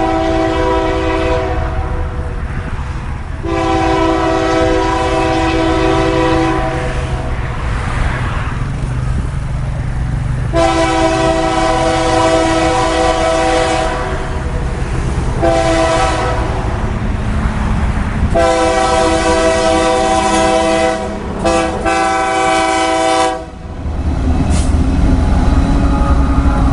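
Diesel locomotive's multi-chime air horn sounding a series of blasts: the end of one, two long, one short and a final long one broken by brief gaps, in the long-long-short-long pattern of a grade-crossing warning. Under it runs the steady low rumble of the passing train, which grows louder after the last blast near the end.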